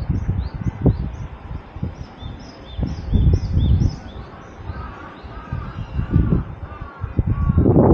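Birds chirping in short, quickly repeated high calls, with a second, lower arched call joining partway through. Under them runs an irregular low rumble, with thumps, that grows loud near the end.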